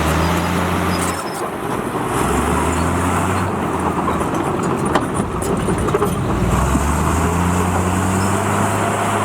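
Heavy diesel engine of earthmoving machinery running under changing load, its note dropping and rising again several times, with a few short knocks around the middle.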